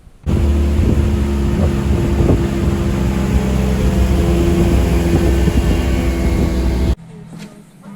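Small boat's outboard motor running steadily under way, with a level engine note; it cuts in abruptly just after the start and cuts off abruptly about a second before the end.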